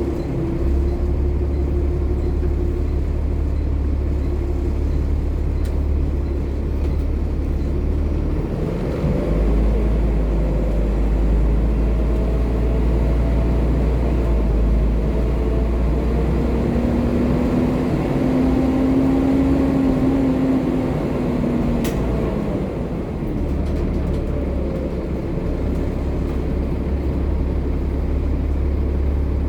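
Volvo B7TL double-decker bus's six-cylinder diesel engine running with a steady low drone. Through the middle a pitched whine rises and falls as the bus pulls and changes speed, then it settles back to a steady drone.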